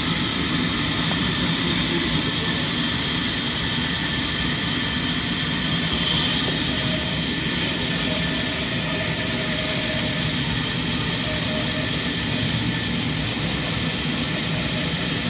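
Sawmill machinery running steadily and without a break.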